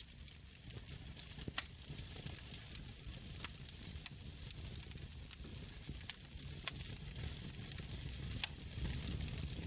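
Wood fire burning in a fireplace: a steady hiss and low rumble of the flames, with sharp crackles and pops from the burning logs every second or so, two louder pops in the first few seconds.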